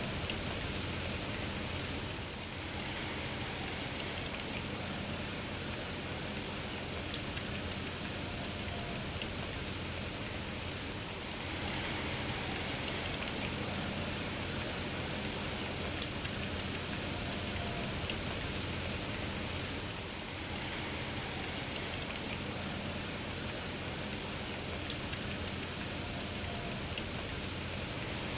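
Steady rain falling, an even hiss of drops. Three sharp single ticks stand out, spaced about nine seconds apart.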